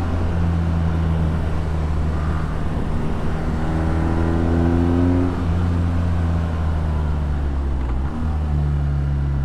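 BMW R nineT's air/oil-cooled boxer twin with an Akrapovic exhaust, running under steady throttle while riding, with wind noise. The pitch rises a little in the middle, and there is a brief dip about eight seconds in.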